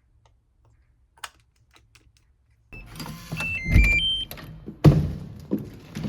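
A few faint clicks in near quiet, then suddenly louder handling noise with a quick run of short electronic beeps at different pitches and a couple of dull thuds.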